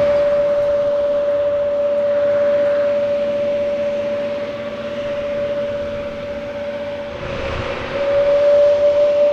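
Jet aircraft engine running with a steady whine over a broad roar. The whine wavers briefly about seven and a half seconds in, with a short low rumble.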